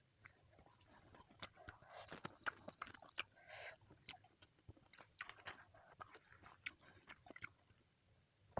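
Faint close-up chewing: a person eating with soft, irregular wet mouth clicks.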